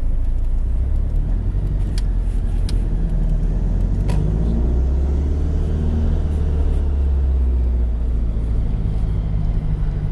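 Supercharged four-cylinder boxer engine of a sports car with modified exhaust, a steady low drone at low speed. A few light clicks about two and four seconds in.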